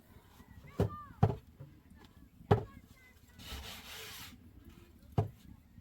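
Four sharp knocks at uneven spacing, the first two close together, with a brief rustling hiss between the third and fourth.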